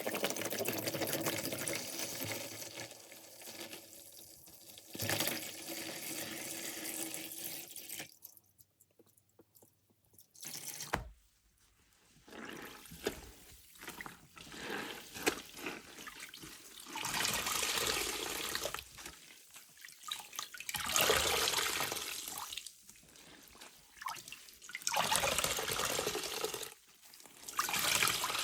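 Soapy orange car wash sponge being soaked and squeezed, water pouring and dripping out of it into a sink. Steady running water at first, a short pause about a third of the way in, then a series of separate squeezes and gushes.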